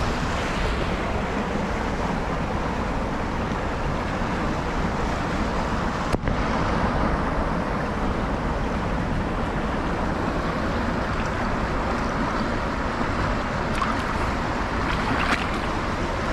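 Small river's fast, high current rushing steadily. There is a brief dropout about six seconds in.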